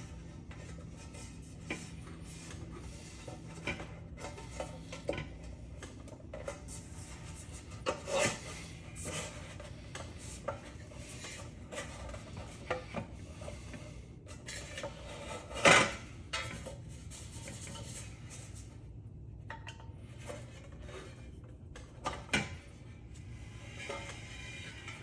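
Scattered metal clinks, scrapes and knocks of hand tools on the parts of an old ceiling fan being taken apart by hand. The loudest knock comes about two-thirds of the way through.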